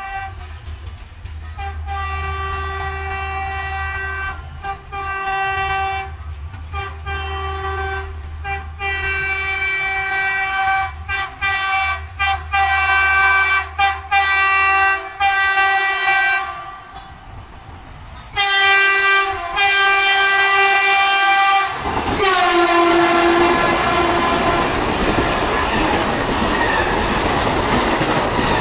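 Train 18 (Vande Bharat Express) trainset sounding its horn in a long series of short blasts as it approaches at speed. About three-quarters of the way in, it rushes past with a loud sudden roar of wheels and air, and the horn drops in pitch as it goes by.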